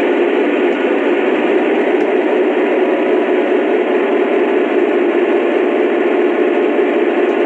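Lionel BNSF SD70MAC model diesel locomotive running, its onboard speaker playing a steady diesel engine rumble with a thin, small-speaker tone.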